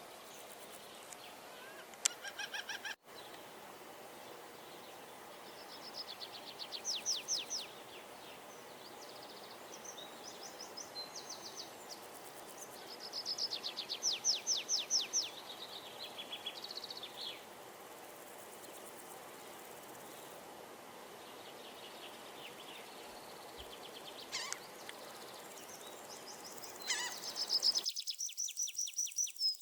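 Outdoor dusk ambience: a steady soft hiss with birds calling in short runs of rapid high chirps, several times over. Near the end the background cuts out abruptly and crickets take over, chirping in a steady rhythm.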